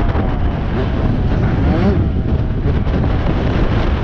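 Motocross bike engine running hard under a dense, rough rumble, its pitch rising briefly about two seconds in.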